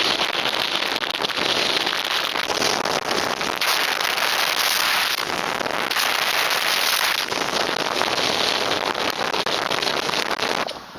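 Heavy wind buffeting the microphone of a Contour action camera, a loud, steady crackling rush that drowns everything else and drops away suddenly near the end.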